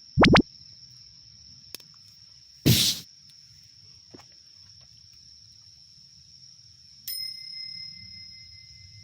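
A steady high-pitched tone throughout, with two short loud sounds in the first three seconds and a bell-like ding about seven seconds in that rings out.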